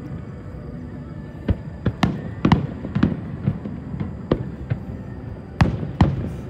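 Aerial fireworks going off in an irregular string of sharp bangs and cracks over a low rumble, with the loudest reports near the end.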